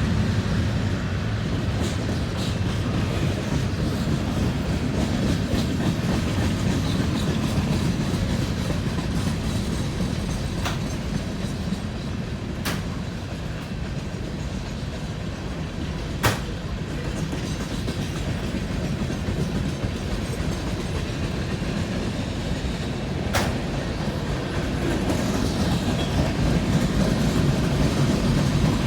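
BNSF coal train's cars rolling past with a steady rumble and clatter of wheels on rail, broken by a few sharp clicks.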